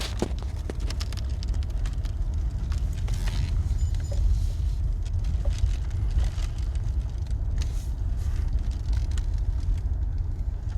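Car cabin road noise while driving: a steady low rumble from the tyres and engine, with scattered small clicks and rattles.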